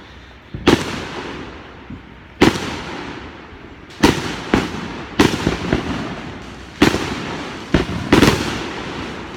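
Fireworks going off: about nine sharp bangs at irregular intervals, a couple in quick pairs, each trailing off in a long echoing rumble.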